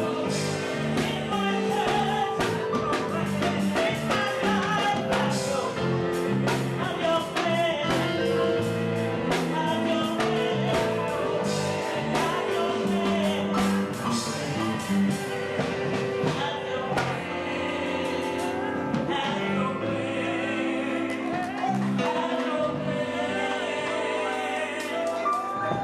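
Gospel music: singing over a steady instrumental backing with a moving bass line.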